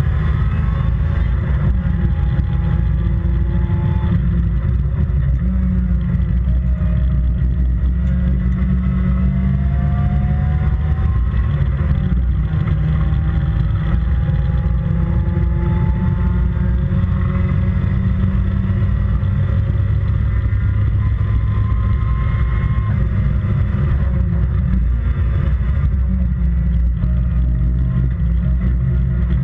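Toyota 4A-GE twin-cam four-cylinder engine in an MG Midget race car running hard at racing speed, its pitch climbing and dropping back several times as it accelerates and shifts, over a heavy, steady low rumble.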